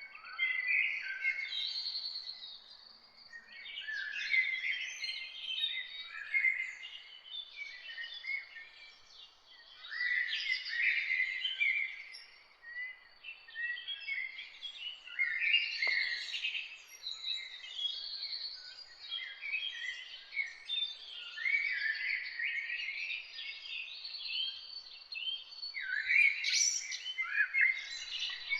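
A chorus of several songbirds singing and chirping at once, with overlapping short, high chirps and trills running on without a break.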